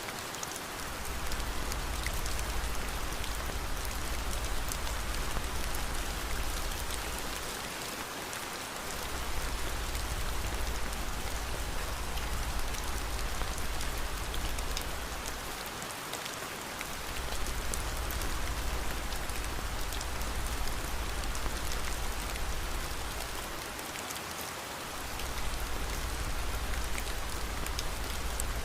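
Steady rain falling in a dense, even hiss with fine scattered drop ticks, over a low rumble that fades out briefly about every eight seconds.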